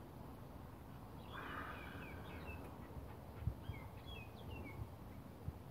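A small bird chirping in two runs of short, quick falling notes, over quiet rural background noise, with a couple of soft low knocks, the louder about three and a half seconds in.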